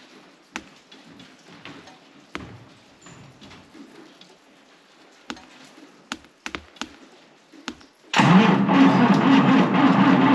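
Deutz engine on a Bogmiser hopper being cranked by its starter on a frosty cold start, with a booster pack connected. The cranking starts suddenly near the end, loud and steady, after a stretch of faint clicks and small knocks. The owner expects a cold, reluctant start and suspects a lazy starter.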